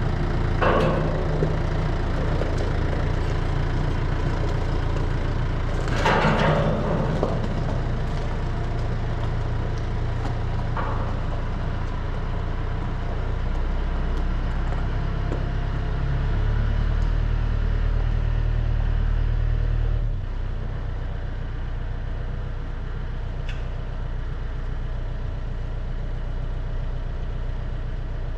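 A vehicle engine running steadily, its low drone shifting in pitch and level several times as it maneuvers, with brief noisy bursts at the start and about six seconds in.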